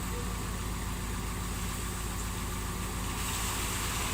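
Engine of a heavy construction machine running steadily, with a haze of mechanical noise that grows slightly louder about three seconds in.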